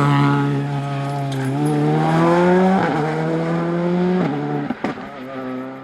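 Rally car engine accelerating hard away through the gears, its pitch climbing and then dropping at each of about three upshifts; the sound fades out near the end.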